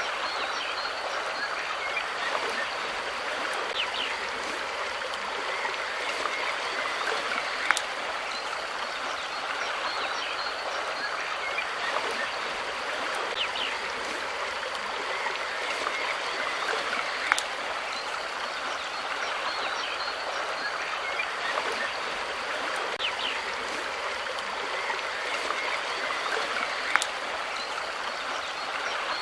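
Running water, a steady rush like a stream flowing over stones, with a few faint ticks.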